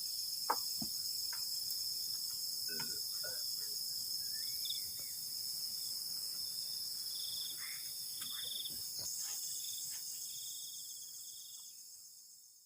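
Forest insects chirring in a steady, high-pitched chorus, with a few faint taps and short calls over it; the sound fades out near the end.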